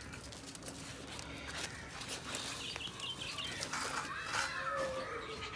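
Faint scattered bird chirps from caged bulbuls, with a cluster of short calls about four seconds in, over light rustling.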